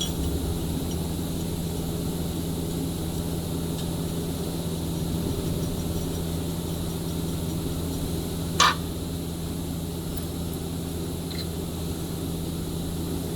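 Steady low hum of running machinery in a factory workshop, with a single sharp metallic knock about eight and a half seconds in.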